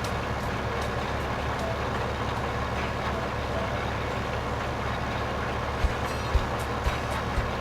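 Truck running steadily with a deep, low rumble. Near the end come several sharp thumps about half a second apart.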